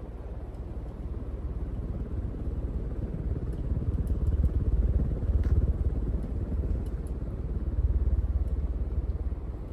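Hunter WhisperWind 2000 52-inch ceiling fan running on high speed: a low, rumbling rush of moving air that swells louder around the middle and again near the end.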